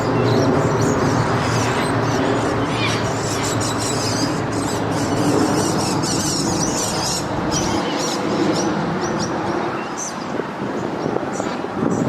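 An airliner's engines running as it passes low overhead: a loud, steady sound with a few held tones, its deepest part dropping away about eight seconds in. Small birds chirp high above it.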